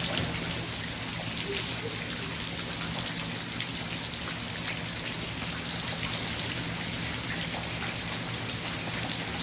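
Steady rain falling, with many fine drop ticks and a faint low hum underneath.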